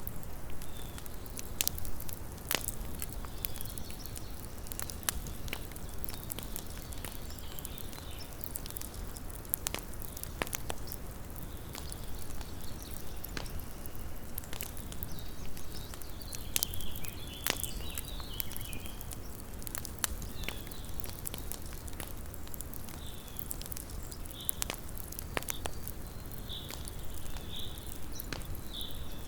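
Small campfire burning, with irregular sharp crackles and pops over a steady low noise. Faint short high chirps come in around the middle and more often near the end.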